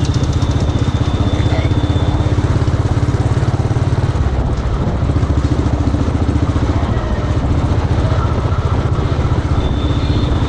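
Royal Enfield motorcycle engine running steadily with an even low pulse as the bike is ridden through traffic.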